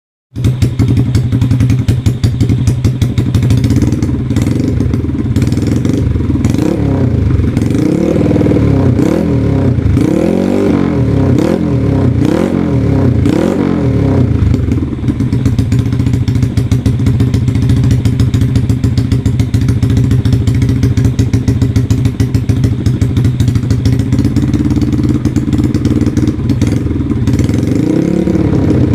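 Yamaha Jupiter Z's single-cylinder four-stroke engine running through a loud aftermarket exhaust. It idles steadily, with a run of quick throttle blips in the middle and another rev near the end.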